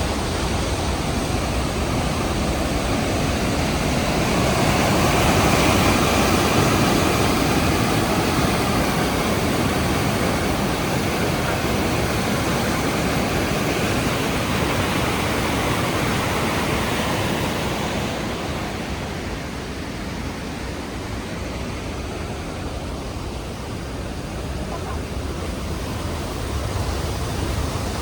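Rhine Falls waterfall: a steady, dense rush of falling water. It swells a little a few seconds in and eases off for a while in the second half.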